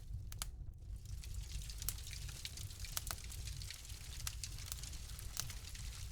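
Wood fire crackling, with irregular sharp pops every second or so over a steady low rumble.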